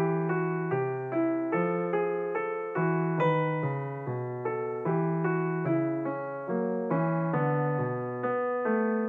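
Background piano music: evenly paced notes over a low bass line, each note struck and fading.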